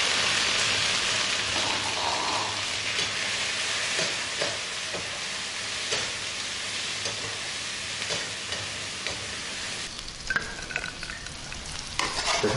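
Green beans and pork dry-frying in a wok: a loud sizzle that slowly dies down, with the spatula knocking and scraping against the wok as it is stirred.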